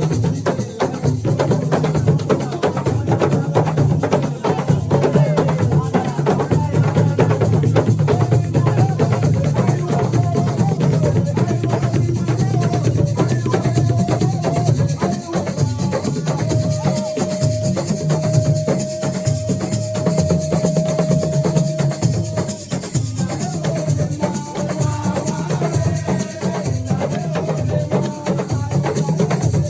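Assiko music: drums, shakers and clacking percussion playing a steady, fast rhythm, with a melodic line over it. About halfway through, a single long tone is held for several seconds.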